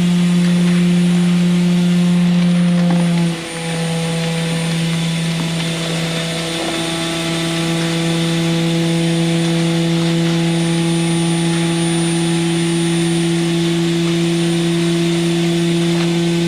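Concrete mixer truck's engine running at steady raised revs, a loud even drone; it dips briefly and settles at a slightly different pitch about three and a half seconds in.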